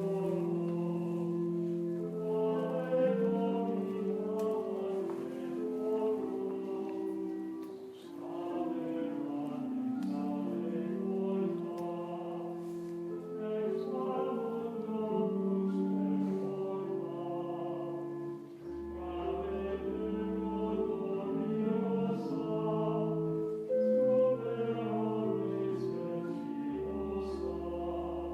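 A closing hymn played on an organ with voices singing along, held chords changing every second or so. Deep bass notes join about two-thirds of the way through.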